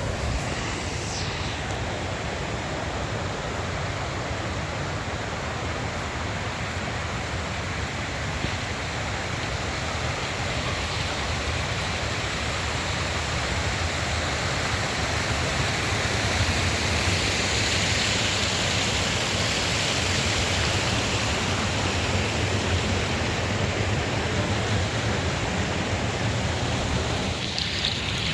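Steady rush of falling water from a waterfall, growing a little louder about halfway through.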